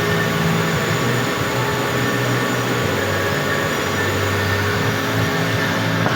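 Metal lathe running steadily, a constant machine hum with several held tones over a noisy hiss.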